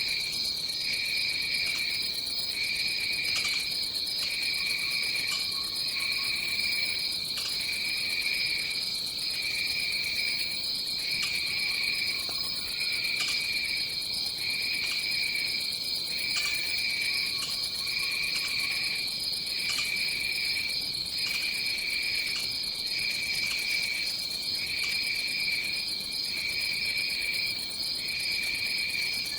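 Tropical jungle insects: one keeps up a steady high trill while another chirps in even pulses about once a second. A few faint low calls come through now and then.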